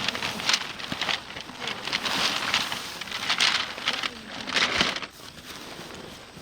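Irregular rustling and crinkling, like material or gear being handled, with a few sharp knocks; it quietens about five seconds in.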